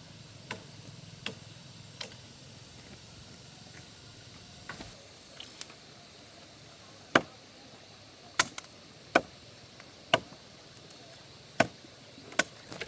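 Wood being chopped by hand with a blade, about a dozen sharp strikes at uneven intervals, the heaviest in the second half.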